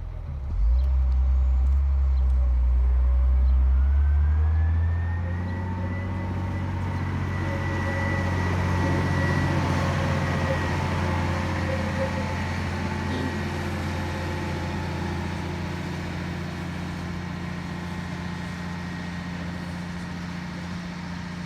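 Large truck's diesel engine running close by, a heavy low rumble for the first few seconds, then a whine that rises and holds steady over a continuing engine hum.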